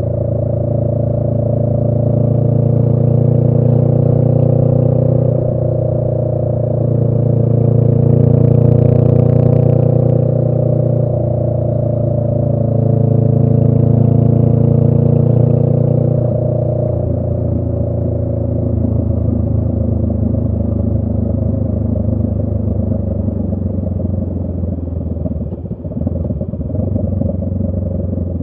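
Honda Rebel 500's parallel-twin engine through a Radiant Cycles Shorty GP aftermarket exhaust, heard from the rider's seat while riding. The engine note swells and eases with the throttle several times, then settles into a lower, steadier note about two-thirds of the way through.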